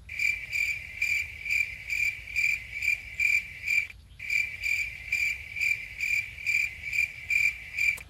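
Insect, cricket-like, chirping in a steady rhythm of about two high-pitched pulses a second, with a brief break about halfway; it starts and stops abruptly.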